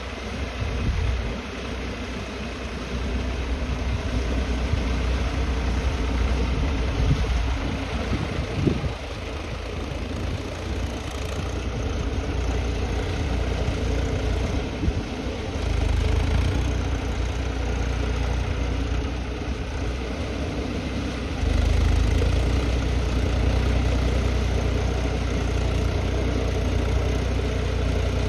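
Massey Ferguson 246 tractor engine running, its deep rumble swelling and easing: heavier for the first stretch, briefly again about halfway, then holding heavier from about three-quarters of the way through.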